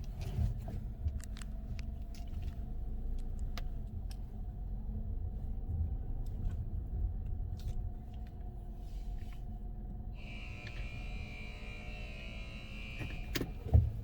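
Low, steady rumble of a car at a car wash, with a few light clicks; about ten seconds in, a steady hiss with a high whine starts up from the wash equipment.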